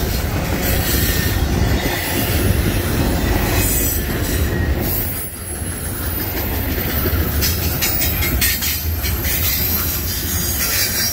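Double-stack intermodal freight train's well cars rolling past close by: a steady rumble and rattle of steel wheels on rail, with a high hiss and squeal of the wheels, dipping briefly about halfway through.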